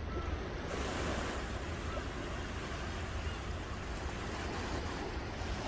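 Ocean surf washing onto the shore as a steady noisy wash, swelling as a wave comes in about a second in, with a low wind rumble on the microphone underneath.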